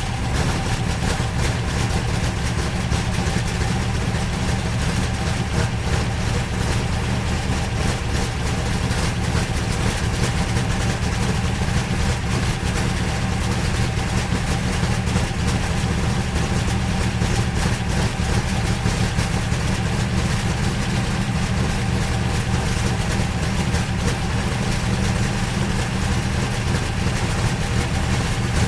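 A vehicle engine idling steadily, with an even low rumble throughout.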